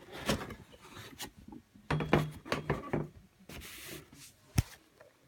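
Cardboard fireworks packaging being handled: rubbing and scraping with several light knocks, and one sharp tap near the end.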